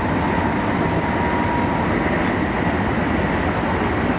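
Meitetsu limited express train running, heard from inside at the front of the train: a steady rumble of wheels on rail with a faint, even high tone.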